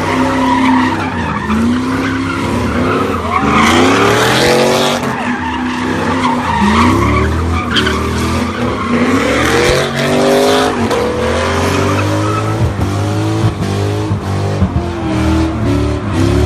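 A car spinning donuts, its engine revving up and falling back over and over while the tyres squeal and skid on the pavement.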